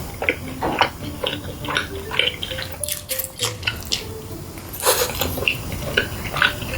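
Close-miked eating sounds: chewing with many short wet clicks and crunches, and the odd clink of cutlery or dishes.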